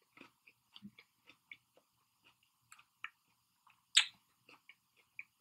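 A person chewing food with the mouth close to the microphone: quiet scattered mouth clicks and smacks, with one sharper click about four seconds in.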